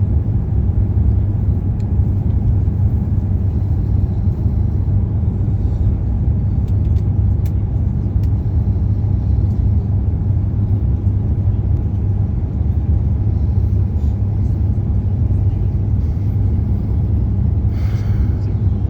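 Steady low rumble of a moving vehicle, even throughout, with a brief higher sound near the end.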